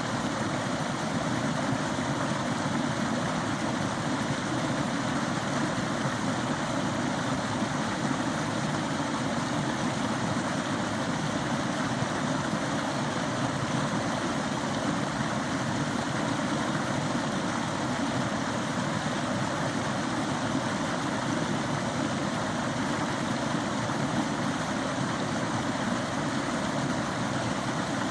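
A small forest stream flowing, giving a steady rushing noise that keeps an even level throughout.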